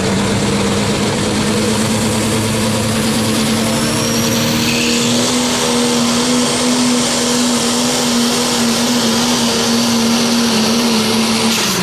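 Turbocharged diesel pickup engine held at full throttle under the load of a pulling sled, its note steady and slowly rising, with a high whistle climbing in about four seconds in. Just before the end the engine note drops suddenly as the throttle is let off.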